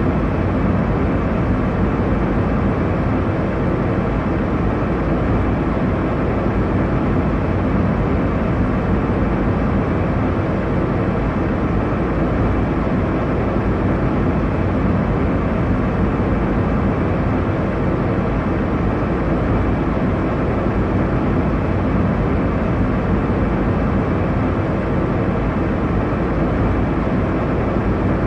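Steady rumble of an airliner cabin in cruise: a constant deep rushing of engine and airflow noise, unchanging throughout.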